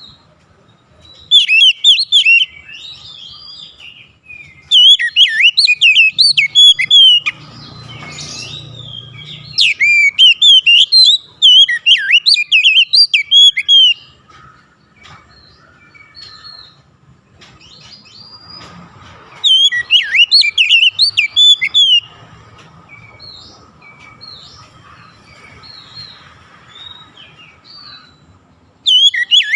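Oriental magpie-robin singing: loud bursts of rapid, swooping whistles and chirps a few seconds long, four or five times, with quieter scattered chirps between them.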